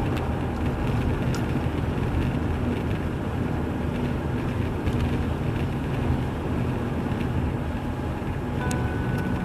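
Car driving, with steady engine and tyre road rumble heard from inside the cabin. Music comes back in near the end.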